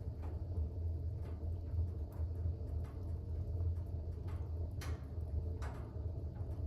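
Fire burning in a fireplace: a steady low rumble with scattered faint crackles, and two louder pops a second apart near the end.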